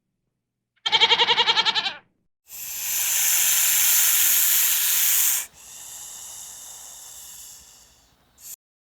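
A single goat-like bleat lasting about a second, with a fast quaver. It is followed by a loud, steady hiss of about three seconds, then a quieter hiss that fades out, with a brief burst of hiss near the end.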